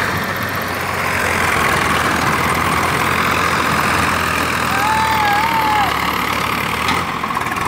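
Swaraj 855 FE tractor's three-cylinder diesel engine running steadily. A short wavering tone sounds about five seconds in.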